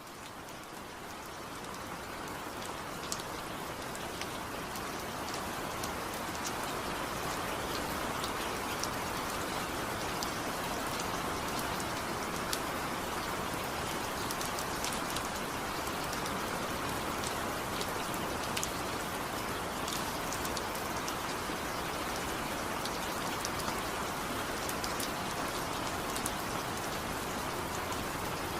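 Steady rain falling, a constant hiss with scattered individual drops ticking sharply through it. It fades in over the first several seconds, then holds at an even level.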